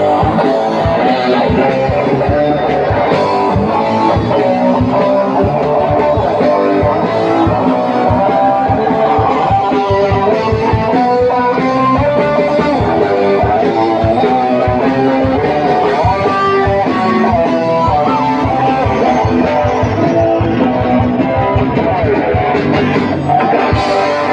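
Rock band playing an instrumental passage with no singing: a guitar carries a melody over steady drums.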